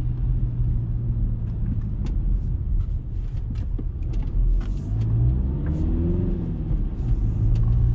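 Skoda Kodiaq's 2.0 TDI four-cylinder diesel engine running with road noise inside the cabin while driving. Its pitch rises and falls about five seconds in, and scattered light clicks come in the first half.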